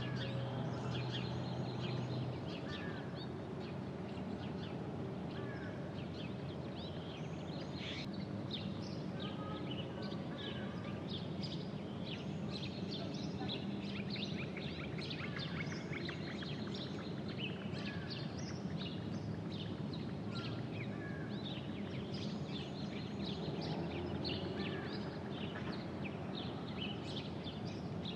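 Outdoor ambience with small birds chirping and calling over and over against a steady background hiss.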